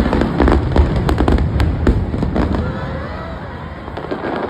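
Fireworks going off: a quick volley of bangs and crackles through the first two and a half seconds, then a fading rumble.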